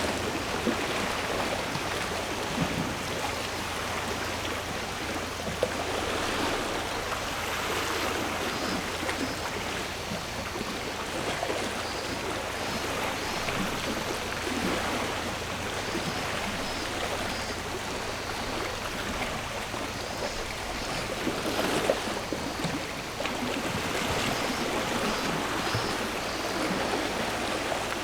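Small sea waves washing on the shore, a steady wash that swells and eases every few seconds.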